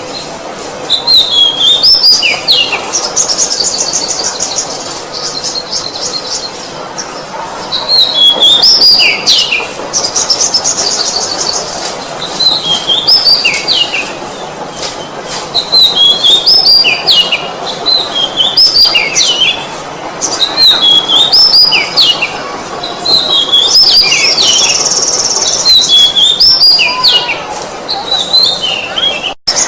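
Oriental magpie-robin (kacer) singing: phrases of quick, zigzagging whistled notes, repeated every few seconds, some ending in a rapid trill.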